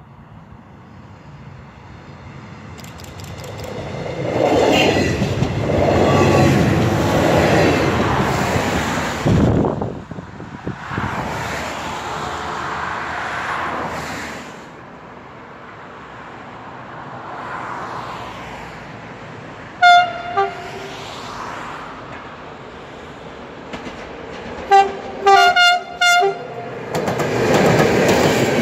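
A Danish IC2 diesel railcar approaches and passes, its running noise loudest between about four and ten seconds in. Later, the horn of a CFR class 477 ELODIA electric locomotive sounds in short blasts, once or twice around twenty seconds in and then several times a few seconds later. Near the end, the locomotive and its passenger coaches begin to pass with wheel and rail noise.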